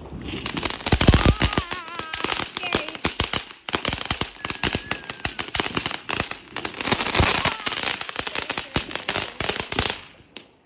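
Consumer firework going off in a dense, rapid string of sharp crackling pops for about ten seconds, then stopping abruptly.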